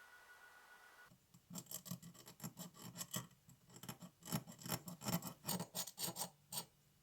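Hand abrading of a diecast model part: quick scraping strokes, about three or four a second, starting about a second in and stopping near the end.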